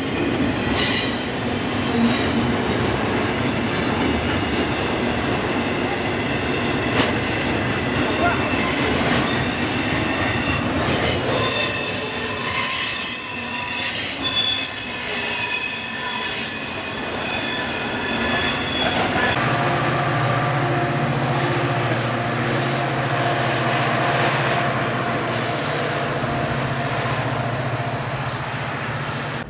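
Double-stack intermodal freight train rolling past close by: a steady rush of rolling steel wheels with shrill, wavering wheel squeal from the cars. About two-thirds through the sound changes abruptly to a steadier, duller train rumble with a low drone.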